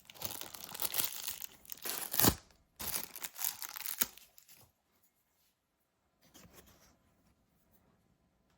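Tearing and crinkling as something stuck down inside a MacBook Pro A1502 is pulled off by hand, in a run of rasping pulls for about four and a half seconds with the loudest about halfway through; after that only faint handling sounds.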